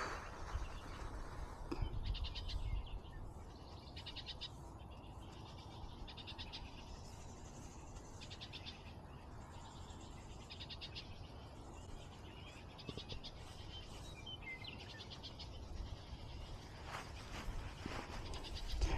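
An animal calling in short pulsed trills, each about a second long and repeating every second or two, over a low rumble of wind on the microphone that swells at the start and near the end.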